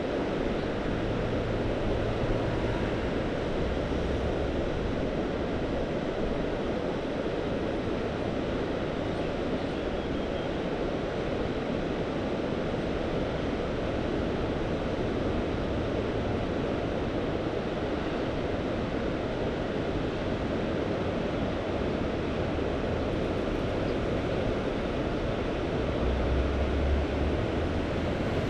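Steady wash of Mediterranean sea surf, with short low gusts of wind rumbling on the microphone, the strongest near the end.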